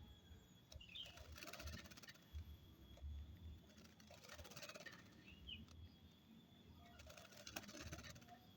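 Faint bursts of rapid wing-fluttering as a sooty-headed bulbul bathes, three times, with two short chirps.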